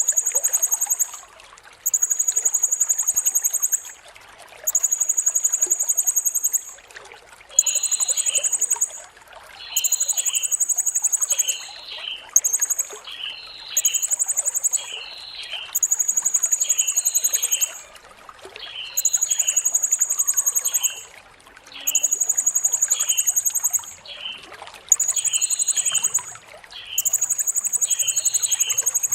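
Blue-crowned hanging parrot (serindit) giving a shrill, very high trill over and over, each phrase lasting a second or two with short breaks between. From about seven seconds in, shorter, lower chirps fall between the phrases, over a steady trickle of water.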